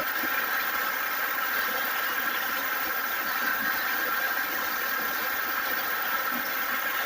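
A steady engine drone, as of a vehicle running, holding at an even level throughout.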